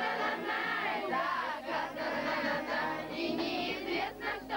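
A group of children singing together, many voices overlapping.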